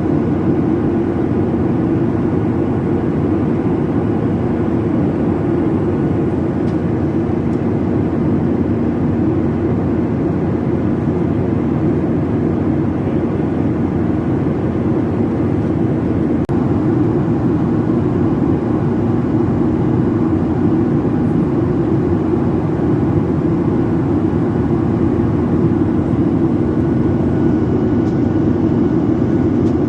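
Steady engine and airflow noise inside a jet airliner's passenger cabin in flight.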